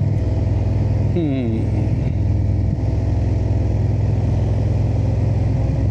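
Indian V-twin motorcycle engine running steadily under way, a low drone, with a brief falling sweep in pitch about a second in.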